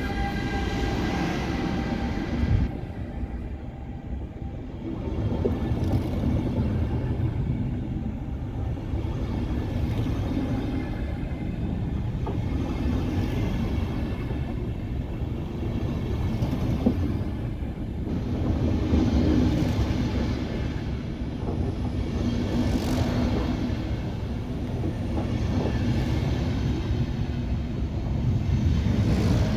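A Siemens Vectron electric locomotive accelerating away, its traction whine heard at first and cutting off about two and a half seconds in as it passes. Then a rake of DB Intercity coaches rolls past with a steady rail rumble that swells and fades every few seconds, with a few faint wheel clicks.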